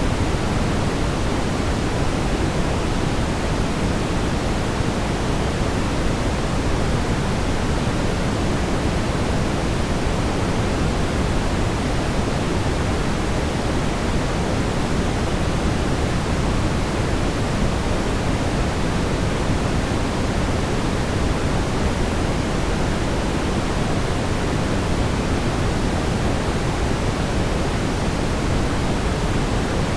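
Steady brown noise: a continuous, even rumble weighted toward the low end, with no changes or events.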